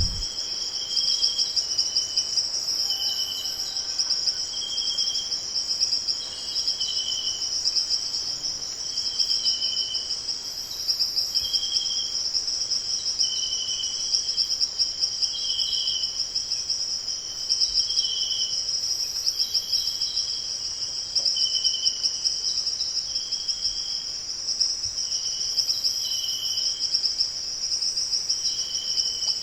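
Outdoor insect chorus: a steady, high, pulsing trill, crickets going by the tags, with short lower-pitched chirps repeating about once a second over it.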